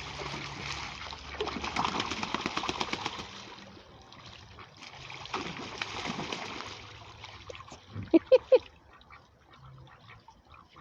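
Ducks splashing in their water in two spells of quick watery patter, then three loud quacks in quick succession about eight seconds in.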